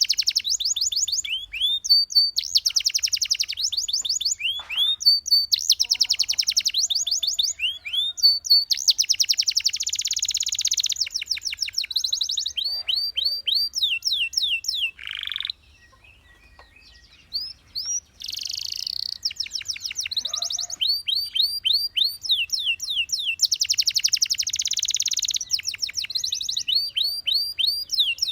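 Domestic canary singing a long song made of runs of the same quick sweeping whistled note, repeated many times before switching to the next, mixed with fast rattling trills. It breaks off for about two seconds just past the middle, then carries on.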